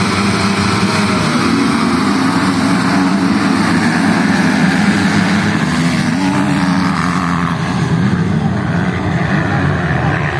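Racing motorcycle engines revving, their pitch rising and falling as the throttle opens and closes.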